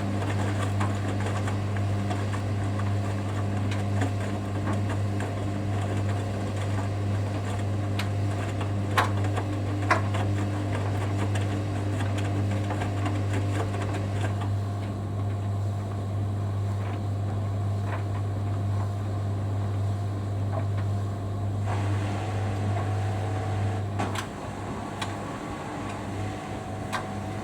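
Hoover Dynamic Next washing machine running at the end of its final rinse: a steady low hum with a few light clicks, the hum stopping about three-quarters of the way through.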